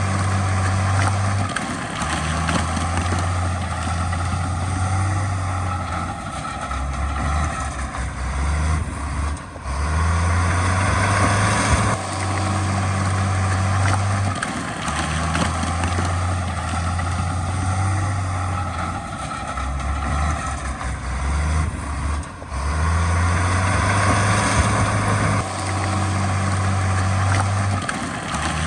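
Heavy diesel earthmoving machinery running steadily, with a continuous engine hum and whine and a brief dip twice.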